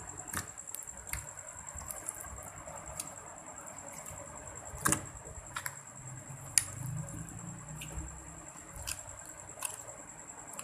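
Slime being worked by hand: soft squishing with scattered small sticky clicks and pops, the sharpest about five seconds in.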